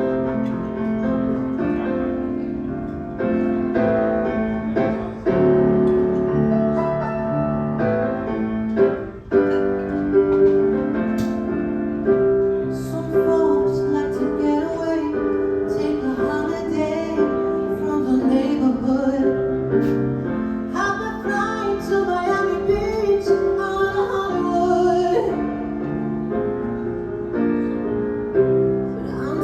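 Live band music led by piano, with a singer's voice over it.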